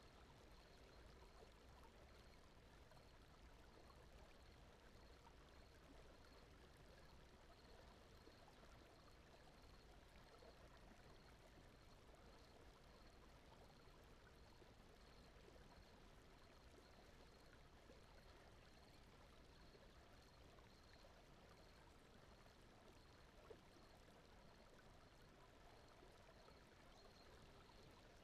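Near silence: a faint, steady rushing noise like a gentle stream, with a faint high pulsing line running through it and one small click late on.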